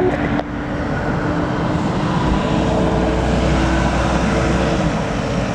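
Aircraft engines running: a steady rushing noise with a steady hum. A deeper rumble comes in about two seconds in.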